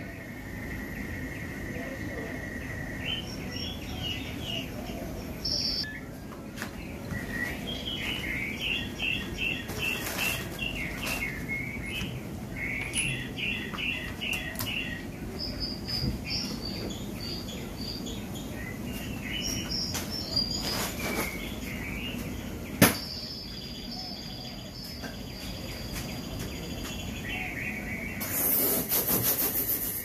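Several birds chirping and singing in short repeated phrases over a steady low background noise. A single sharp click comes about three quarters of the way through, and a brief rush of noise near the end.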